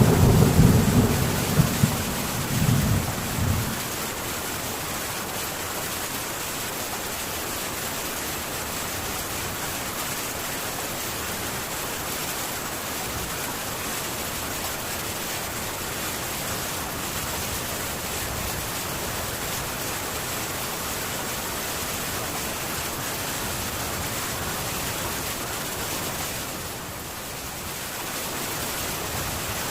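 Steady heavy rain on a metal tin roof, with a low rumble of thunder dying away over the first few seconds. The rain eases slightly near the end.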